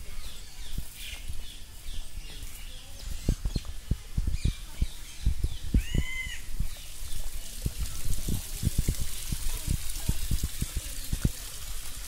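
Birds calling from aviaries, with one clear arching call about six seconds in, over repeated low thumps on the microphone. A steady high hiss, like trickling water, grows in the second half.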